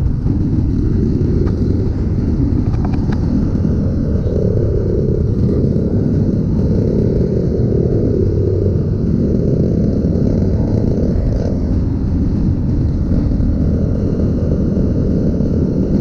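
Kawasaki KLX trail bike's single-cylinder four-stroke engine running through its stock exhaust while riding, the revs wavering a little up and down.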